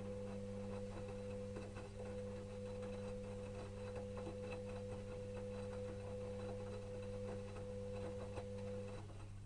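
Electrolux EWS 1045 washing machine mid-wash: the motor turns the drum with a steady whine that stops about nine seconds in, over faint irregular patter and clicks from the tumbling load and water.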